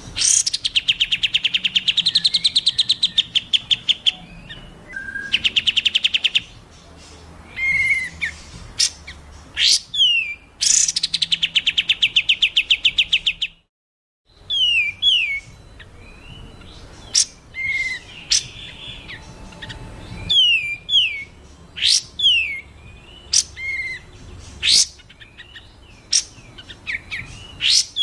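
Recorded songbird song compiled as masteran training audio. Loud rapid trills come first, then a brief drop to silence at a splice about 14 seconds in. After that come short, sharp whistled notes, many sliding downward, with quick upward sweeps between them.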